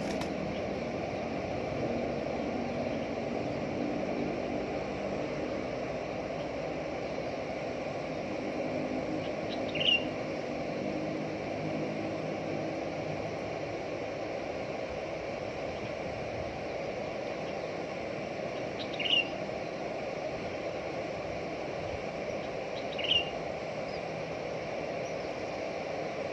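Three short, high chirps from a bird, well apart, over a steady low background hum.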